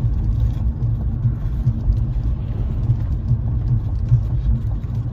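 Steady low rumble inside a car, with the engine running.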